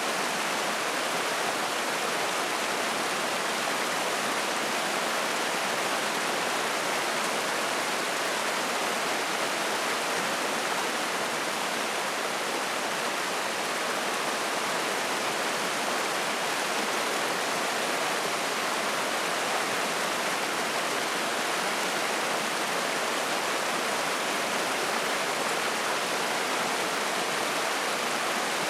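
Spring-fed mountain stream rushing and splashing over rocks in a steady, unbroken hiss of water.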